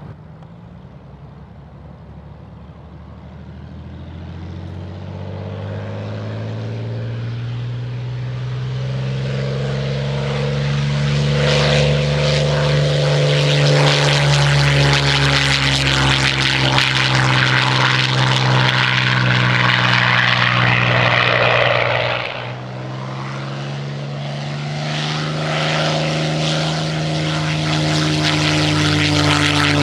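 Piston-engined WWII fighter plane taking off: the propeller engine runs at high power and grows steadily louder over the first dozen seconds. It dips abruptly a little over twenty seconds in, then builds again.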